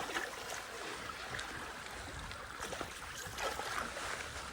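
River water rushing and trickling around a bamboo raft as it drifts downstream, with a few faint short clicks.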